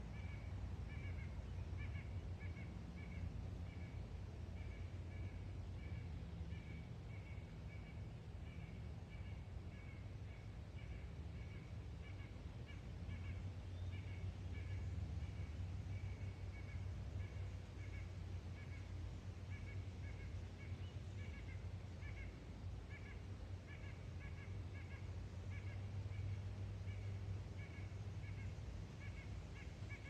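Outdoor woodland ambience: a bird repeats a short high call over and over, with a steady low rumble underneath that swells and fades.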